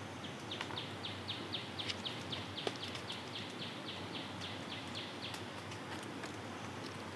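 A bird singing a long, even series of quick down-slurred notes, about five a second, that stops a little past halfway.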